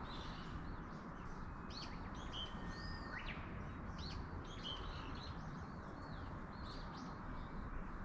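Songbirds chirping and calling, many short chirps and whistled notes, over a steady background rush.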